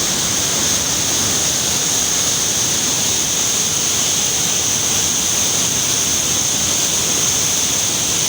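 Steady, even rush of river water pouring through the gates of a barrage on the Jhelum River.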